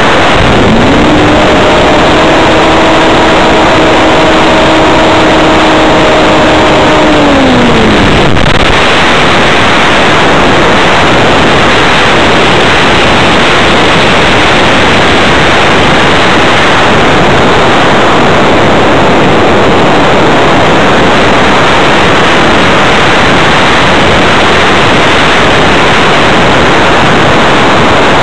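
Loud wind rush over an onboard camera on an RC hotliner in flight. About a second in, the electric motor and 12x10 carbon propeller spin up to a steady whine. The whine holds for about six seconds, then falls in pitch and stops as the throttle is cut, leaving only the rush of air while the plane glides.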